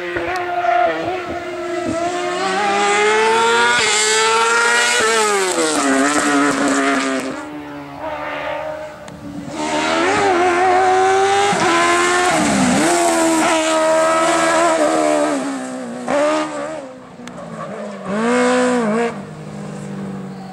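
Race car engine accelerating hard through the gears, the revs climbing and then dropping sharply at each upshift, with a loud pass about halfway through and a short burst of revs near the end.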